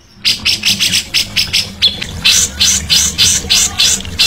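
A songbird repeating short, harsh chattering notes about five a second, with a brief break about halfway, over a steady low hum.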